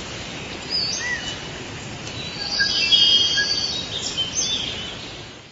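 Jungle ambience: birds calling in short whistled chirps over a steady background hiss, the loudest calls about three seconds in, fading out at the end.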